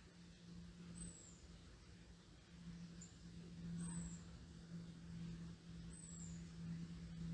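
Low steady drone of an aircraft passing overhead, swelling and easing slightly. A small bird gives a thin, very high call, a short downward-sliding note, four times.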